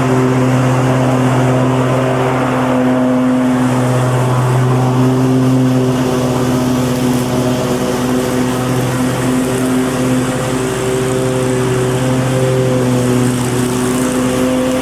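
Lawn mower engine running steadily, its pitch wavering slightly, over the hiss of cutting.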